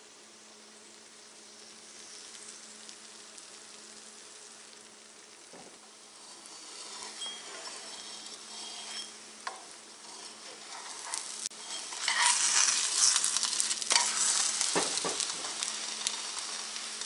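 Egg paratha batter of egg and flour sizzling as it fries in oil in a frying pan, starting faint and building to a loud, crackling sizzle about twelve seconds in. A few sharp clicks of metal tongs against the pan.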